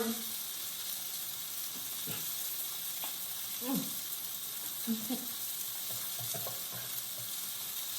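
Food sizzling steadily in a frying pan.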